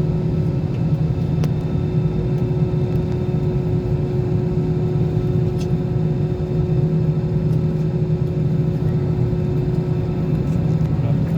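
Airliner engines running, heard as a steady low rumble with a constant hum that neither rises nor falls.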